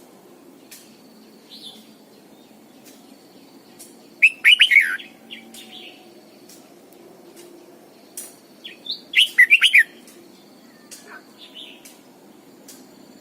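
Red-whiskered bulbul singing: two short bursts of quick, pitch-sliding notes, one about four seconds in and one near the ten-second mark, with fainter chirps between.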